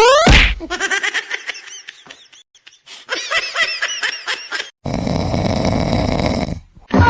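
A quick falling glide, then a run of high-pitched laughter in quick rising-and-falling bursts. This is followed by about two seconds of a dense, steady noisy sound and a short loud burst near the end.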